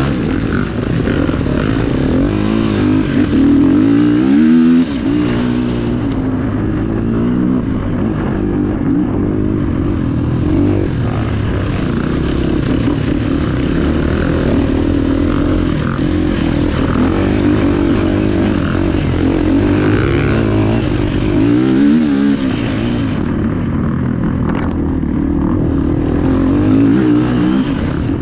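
Dirt bike engine running under load on an off-road trail. Its pitch rises and falls again and again as the throttle is opened and shut, with several sharp revs.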